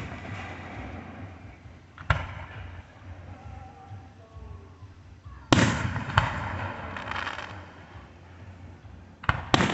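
Fireworks bursting: separate sharp bangs, each trailing off in a ringing tail. There is one about two seconds in, the loudest about five and a half seconds in with another right after it, and a quick pair near the end.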